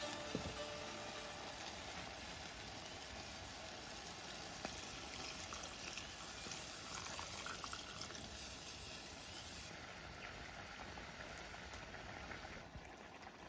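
Steady rain falling, a soft even hiss, with a single light tap about halfway through.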